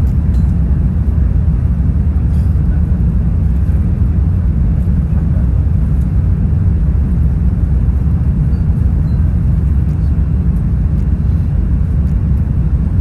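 Airbus A380-800 cabin noise heard from an economy seat: a steady, loud low rumble of the engines and airflow, unchanging throughout.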